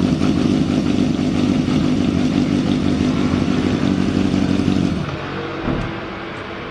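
Yamaha XJ550 air-cooled inline-four motorcycle engine idling steadily. It gets somewhat quieter about five seconds in.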